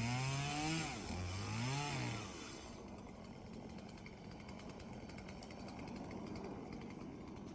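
A small engine revving up and down twice, then dropping to a fainter, steady rumble.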